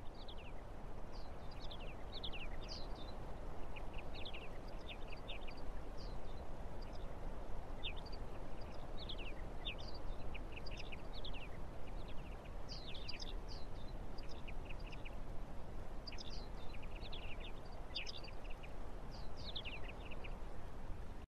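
Small birds chirping in many short, quick calls, scattered throughout over a steady background rush.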